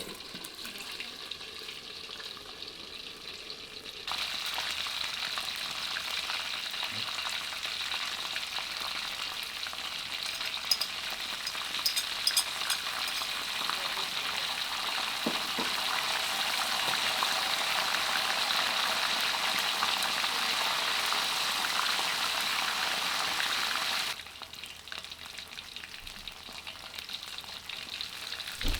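Flour-coated chicken pieces deep-frying in hot oil in a wok, with a steady sizzle and crackle. The sizzle jumps suddenly louder about four seconds in, with a few sharp clicks around the middle, and drops back down suddenly near the end.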